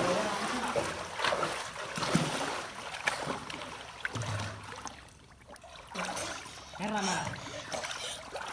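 Water splashing and churning as people swim in an open well, with a few brief shouts among it.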